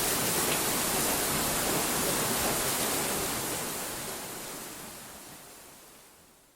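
A steady rushing hiss, like rain or running water, used as a sound effect; it holds for about three seconds and then fades out slowly.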